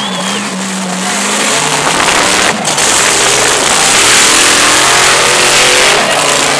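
Supercharged mud truck engine running hard at high revs, getting louder about a second and a half in and staying loud, with a brief drop near the middle.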